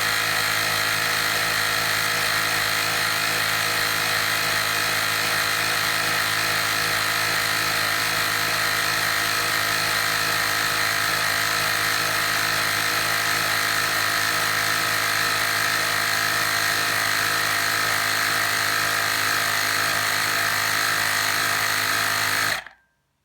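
Woowind AP2-P cordless tyre inflator's electric compressor running steadily with a high mechanical whine and buzz. It cuts off suddenly near the end.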